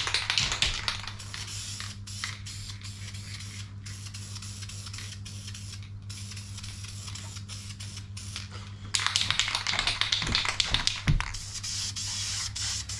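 Aerosol can of VHT high-temperature engine enamel spraying: a hiss in two bursts, one at the start and one from about 9 s to 12 s, with a pause of several seconds between them. A steady low hum runs underneath.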